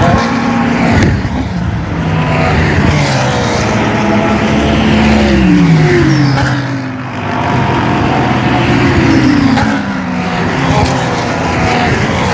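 Race cars passing one after another at speed, each engine note falling in pitch as it goes by, about three times.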